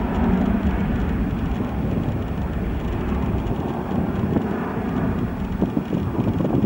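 Boeing 737-800's CFM56-7B turbofan engines running at takeoff thrust: a steady, loud jet noise.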